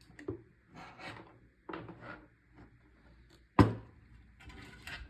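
Handling noises: short knocks and rubbing of hard objects being moved, with one sharp bang about three and a half seconds in that is the loudest sound.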